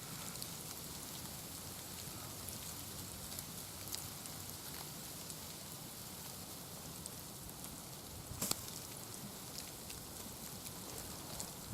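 Steady patter of rain, with scattered drop ticks and one sharper click about eight and a half seconds in.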